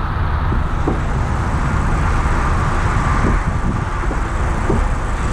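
2020 Mazda MX-5 Miata's four-cylinder engine idling steadily with the hood open.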